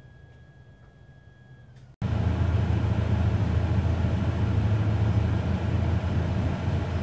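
Faint room tone at first, then about two seconds in a sudden cut to the 2012 Subaru Legacy GT's turbocharged flat-four engine idling steadily, heard from inside the cabin.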